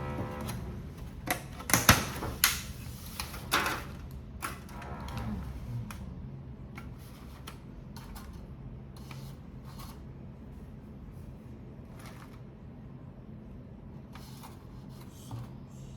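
Plastic takeaway food packaging being handled and opened: irregular clicks, snaps and crinkles, busiest in the first four seconds, then only occasional faint clicks.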